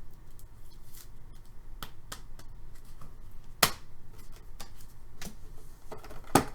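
Trading cards and card packs being handled: soft shuffling and rustling with scattered light clicks, and two sharper clicks, one about three and a half seconds in and one near the end.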